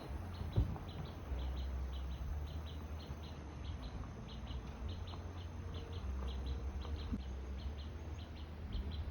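A small bird chirping over and over, short double chirps about twice a second, over a low steady rumble.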